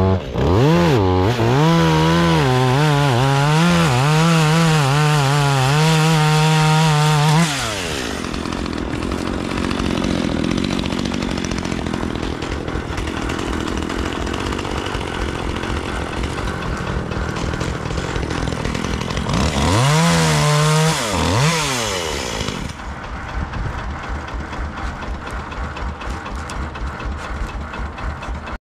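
Chainsaw running at high revs for about seven seconds, its pitch wavering up and down, then dropping to a lower, rougher running note. It revs up again briefly about twenty seconds in before settling back down.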